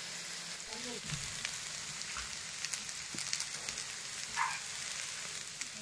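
Vegetables and noodles for chowmein sizzling as they fry in a pan: a steady hiss with scattered crackles.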